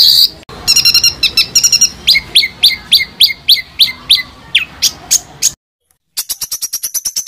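Recorded songbird calls: sharp, rapidly repeated notes, first a series of high notes that each drop steeply in pitch at about three to four a second, then after a brief gap a faster, even run of high notes, about eight a second.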